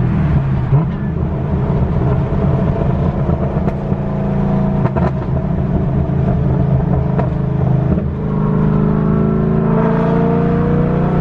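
Straight-piped, cammed LS3 V8 of a 2011 Camaro driving, with a loud exhaust note. The note falls off right at the start, runs fairly steady, then rises in pitch from about eight seconds in as the car accelerates.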